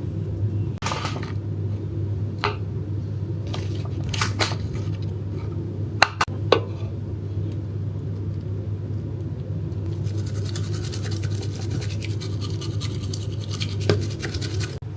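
A steady low hum with a few scattered clicks and taps, then a fast scratchy brushing or scrubbing sound for the last few seconds.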